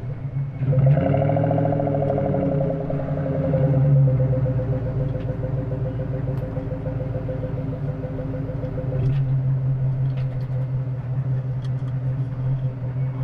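1997 SVT Cobra's 4.6-litre V8 running through a BBK off-road X-pipe and Flowmaster 40 series mufflers; the revs rise and fall briefly about a second in, then it settles to a steady idle.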